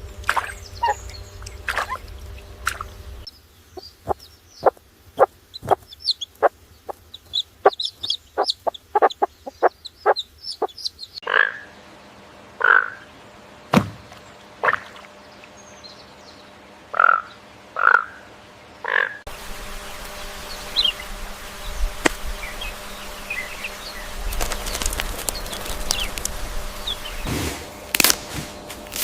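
Chickens clucking in a series of short clips, with abrupt changes of background where one clip gives way to the next.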